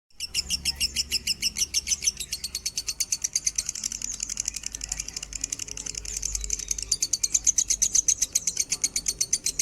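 Lovebird singing: a long unbroken run of shrill chirps, about ten a second, starting suddenly.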